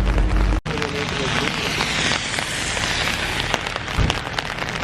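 Steady rain falling on hard surfaces outdoors. It follows a low, steady hum that stops abruptly about half a second in.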